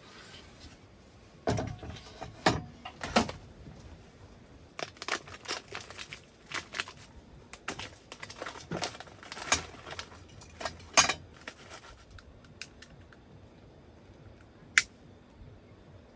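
Irregular clinks, taps and light knocks of small metal and plastic items being handled, like camp cookware and utensils, with one sharp click near the end.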